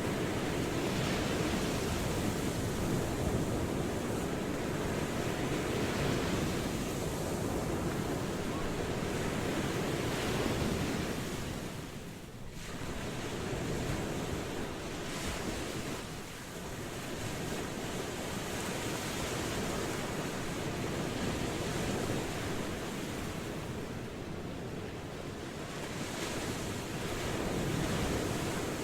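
Ocean waves washing in as a continuous surf, swelling and easing, with two brief lulls about 12 and 16 seconds in.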